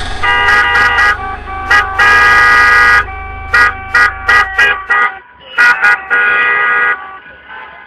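Car horn honking over and over in celebration: two long blasts, a quick run of short toots, then another long blast near the end. A low rumble sits underneath and drops away about five seconds in.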